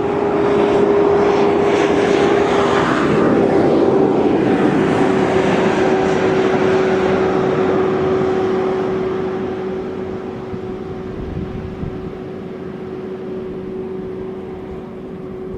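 A motor's steady drone passing by, loudest over the first few seconds and fading away from about eight seconds in.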